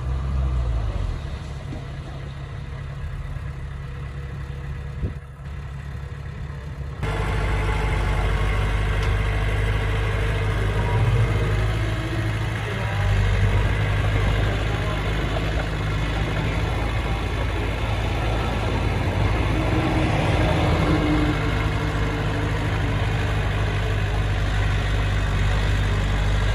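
Diesel engine of heavy earthmoving equipment running steadily. About seven seconds in, the sound abruptly becomes louder and fuller, then holds steady.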